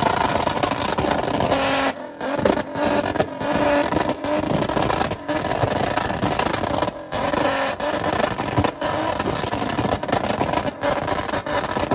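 Car engines running and revving loudly, with brief dropouts in the sound several times.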